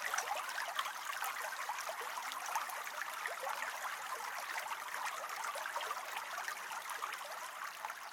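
Running water like a trickling stream: a steady splashing hiss with fine crackles that starts abruptly and fades out near the end.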